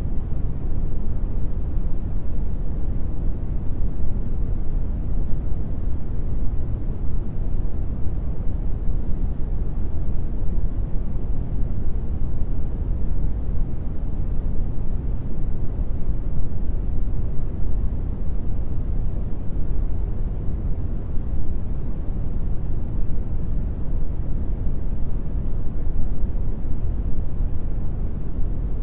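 Steady brown noise: an even, deep rushing hiss with most of its weight in the low end and no change throughout.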